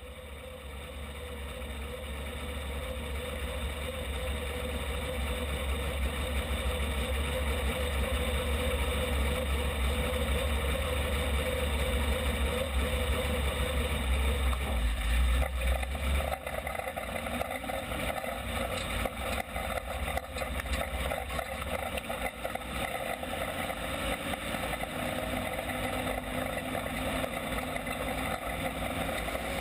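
Midwest Modified dirt-track race cars' V8 engines running as a continuous drone, fading in over the first few seconds. About halfway through, the deep low rumble drops away.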